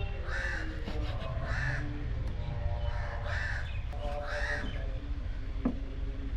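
Crows cawing, four harsh caws about a second apart in the first two thirds, over a steady low rumble.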